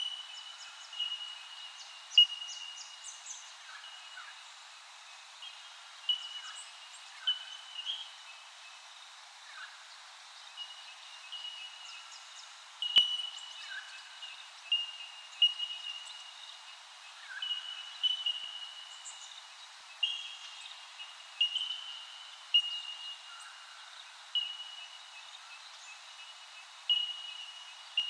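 Birds calling: a short, high, steady-pitched note repeated every second or two, with fainter chirps between.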